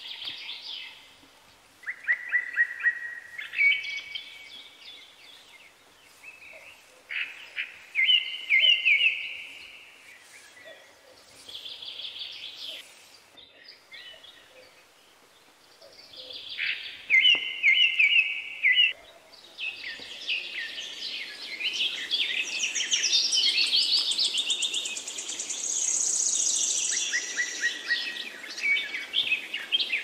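Birds chirping and trilling in short, rapid runs every few seconds, growing into denser, overlapping, higher calls about two-thirds of the way through.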